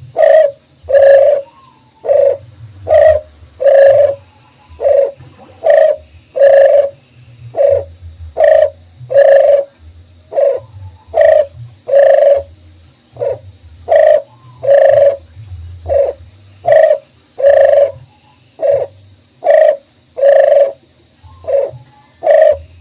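Dove cooing: a long run of low coos, a little under one a second, alternating shorter and longer notes, the kind of call used as a lure recording to draw doves in. A faint steady high tone runs underneath.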